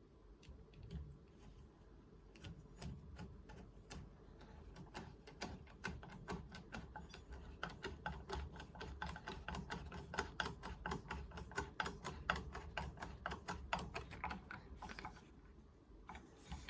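A rapid run of light, sharp clicks, scattered at first and then about five or six a second, stopping shortly before the end.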